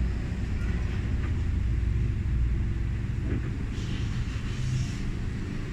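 Hitachi 9.5 kg washing machine beginning to drain, a steady low rumble of water running out, with a brief hiss around the middle.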